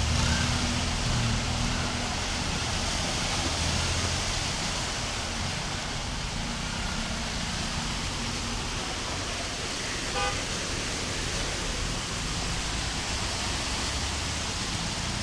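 Steady hiss of heavy rain and running floodwater with the low rumble of car engines in stalled traffic. A short car horn honk sounds about ten seconds in.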